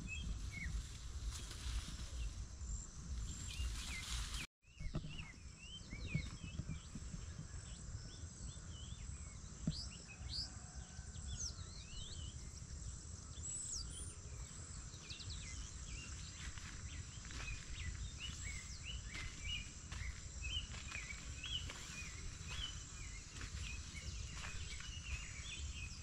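Birds chirping and calling, many short rising and falling chirps all through, over a low background rumble. The sound drops out for a moment about four and a half seconds in.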